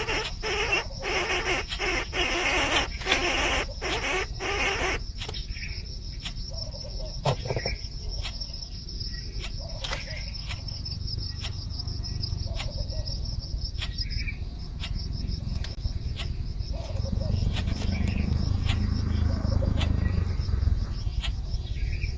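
Insects chirring steadily with a high, fine pulsing. In the first five seconds a louder run of rhythmic noisy pulses, about two a second, sits over it, and a low rumble comes up near the end.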